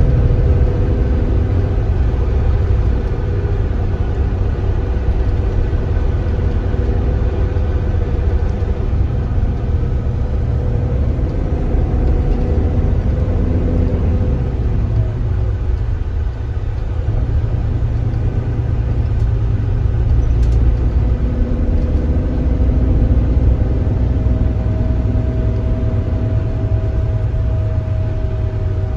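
Kia Granbird Sunshine coach's engine running under way, a steady low rumble with a faint whine that drifts in pitch, heard from inside the bus.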